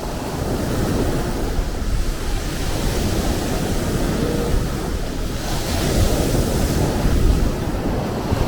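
Sea waves, a steady rush of surf with a deep rumble beneath. A wave swells louder and hissier about six seconds in.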